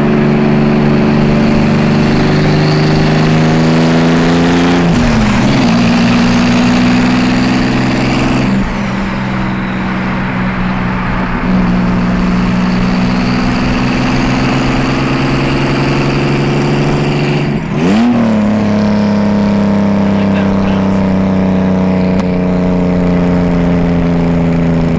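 A car engine running under steady load while driving, its pitch drifting slowly. Twice, about five seconds in and again near eighteen seconds, the pitch dips briefly and then jumps back, like a gear change.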